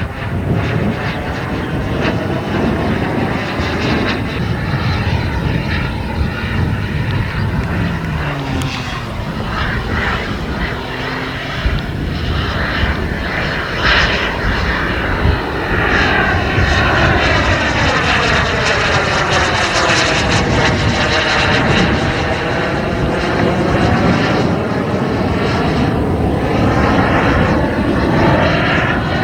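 Turbine engine of a radio-controlled model jet in flight, a steady jet noise, with a close pass about two-thirds of the way through that brings a sweeping, swelling tone.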